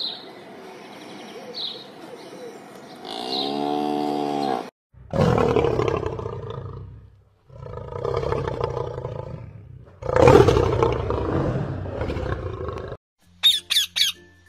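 An animal roaring: three long, loud roars, each cutting off abruptly, with a shorter call falling in pitch just before them. Faint high bird chirps come early, and three quick high chirps come near the end.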